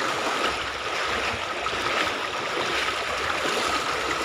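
Floodwater rushing steadily, a continuous wash of moving water, with a thin steady whine running under it.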